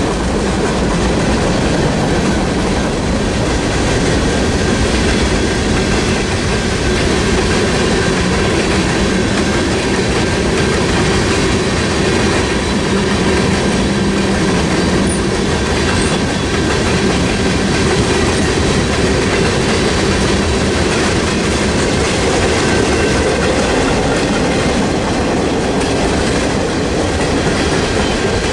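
Freight train cars, including covered hoppers, rolling past close by: a steady, loud noise of steel wheels running on the rails.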